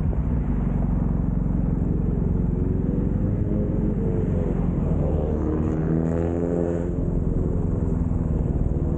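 Motorcycle engine running under way with road and wind rumble; its pitch rises and falls in the middle as the bike's speed changes.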